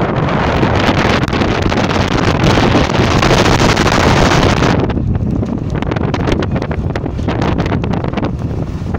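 Strong wind buffeting the microphone: a loud rushing gust that eases about five seconds in, leaving a low rumble broken by sharp gusty pops.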